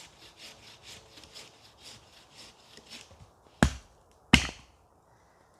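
A run of rasping strokes, about three a second, like a saw or a scraper working on wood, then two sharp, loud knocks about three quarters of a second apart.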